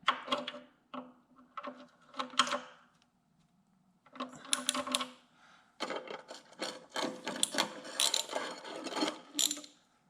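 Mechanical clicking and metal clattering in short bursts, growing denser and busier in the second half.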